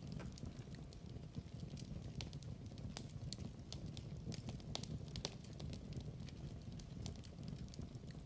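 Wood fire in a fireplace crackling steadily: a low rumble of burning with irregular sharp pops and snaps several times a second, a few louder pops about halfway through.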